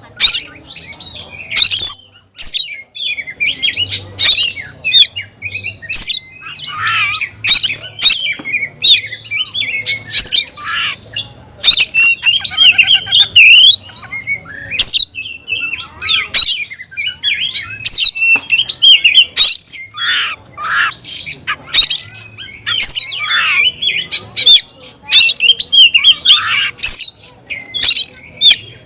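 Oriental magpie-robin (kacer) singing loudly and continuously: a rapid jumble of sharp, varied whistles, harsh notes and chatters, with a short rattling trill partway through.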